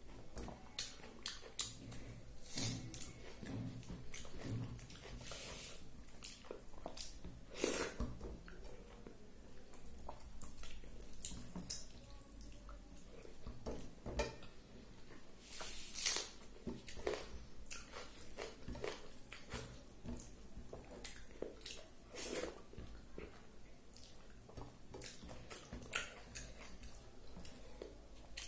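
A person eating rice with dal and mixed vegetables by hand: chewing and wet mouth smacks, with irregular sharp clicks and a few louder smacks.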